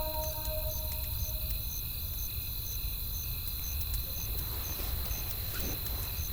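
Campfire crackling, scattered sharp pops over a low steady rumble, with a steady high insect trill and cricket chirps repeating about twice a second. The last held notes of a soft melody fade out in the first second.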